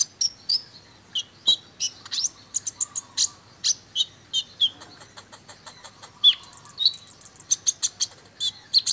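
Van Hasselt's sunbird (kolibri ninja) singing a string of short, sharp, high chirps. About six seconds in it breaks into a quick, dense run of notes with a few held high whistles, the rapid 'tembakan' phrases prized in masteran song.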